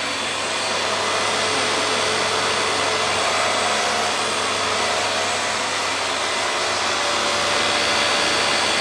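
Vax Air Stretch Pet Max upright vacuum cleaner running steadily, a rush of air over a low motor hum.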